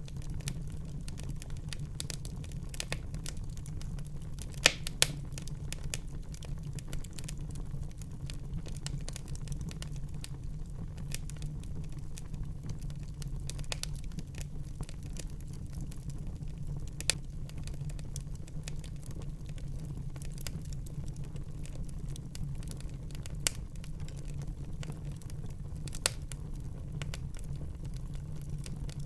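Wood fire burning in a fireplace: a steady low rumble of flames with continual crackling and sharp pops, a few of them louder, about five seconds in and near the end.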